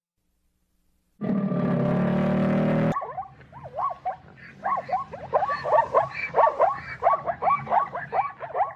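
Animal calls: a loud, drawn-out call with a rich buzzy tone that cuts off sharply, then a rapid run of short calls that sweep up and down in pitch, several a second.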